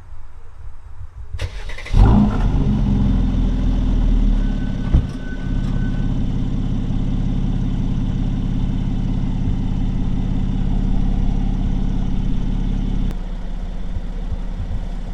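Mercedes-AMG C43's V6 engine starting about two seconds in, with a loud flare of revs that lasts a few seconds. It then settles into a steady idle, which drops a little lower near the end.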